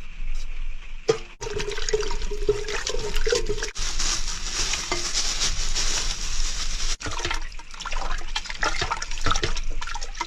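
Water running and splashing into a cooking pot, filling it to blanch pig trotters, in several short cut-together stretches.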